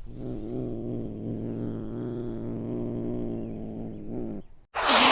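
A domestic cat making a low, steady rumble for about four seconds, then, after a short break, a loud short hiss near the end.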